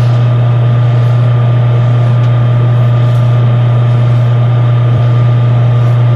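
Hand-held hair dryer running steadily with a loud, even motor hum.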